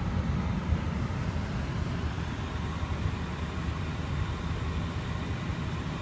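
Car engine idling: a steady low rumble with no change.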